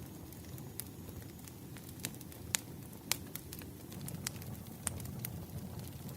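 Wood campfire burning: a steady low rush of flame with scattered sharp crackles and pops, the two loudest about two and a half and three seconds in.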